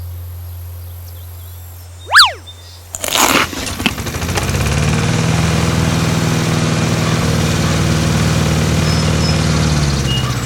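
Tractor engine sound effect starting up about three seconds in and then running steadily. Just before it, a brief sharp swoosh, the loudest sound, cuts across a low hum that fades away.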